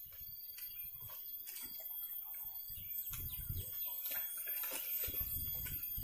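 Faint outdoor ambience: scattered bird chirps over a low, uneven rumble.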